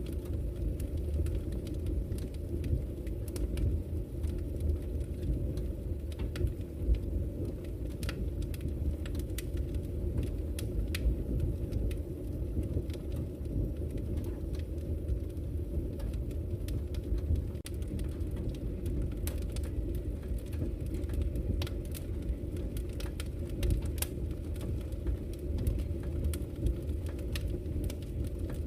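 Wood fire burning in a fireplace: a steady low rumble of the flames with frequent irregular sharp crackles and pops from the burning wood.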